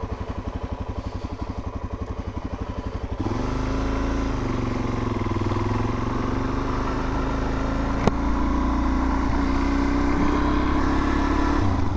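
Suzuki DR-Z400's single-cylinder four-stroke engine idling with an even pulse, then about three seconds in the bike pulls away and the engine runs steadily under way, its pitch rising and falling. A single sharp click about eight seconds in.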